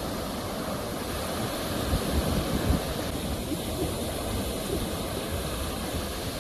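Ocean surf: a steady rush of waves washing ashore, swelling a little about two seconds in.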